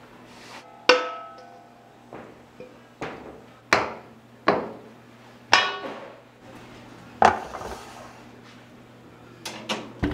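Metal kitchenware, such as bowls, pans or trays, being knocked and set down: about ten separate clanks, irregularly spaced, several ringing briefly.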